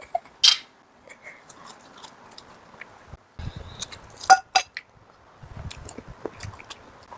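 A short clink of glasses about half a second in, then eating at the table: scattered clicks of cutlery and dishes, with two sharper clicks a little past the middle.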